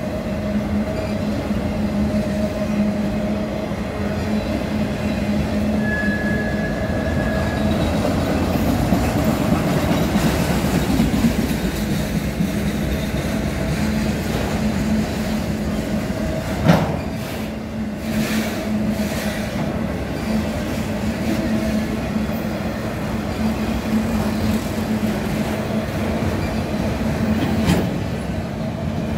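Loaded CSX autorack freight cars rolling past, with a steady rumble of wheels on rail and a low, steady hum. A brief high squeal comes about six seconds in, and a sharp clank about seventeen seconds in, followed by a few lighter knocks.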